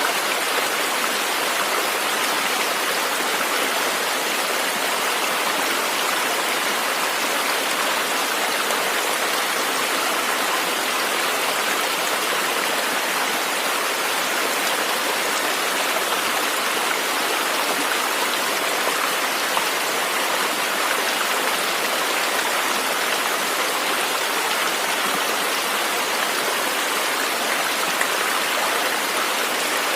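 River water flowing: a steady, even rush with little low rumble and no change in level.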